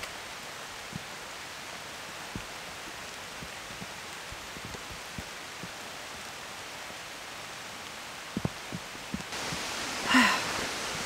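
Rain falling steadily, an even hiss with scattered soft taps of drops. About ten seconds in there is a short burst of a woman's voice.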